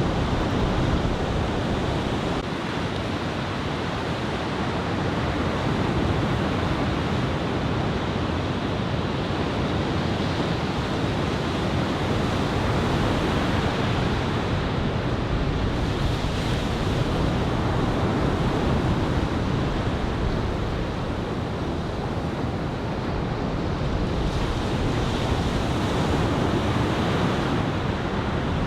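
Ocean surf from a typhoon swell breaking and washing in, a continuous rushing that swells and eases slowly over several seconds, with wind buffeting the microphone.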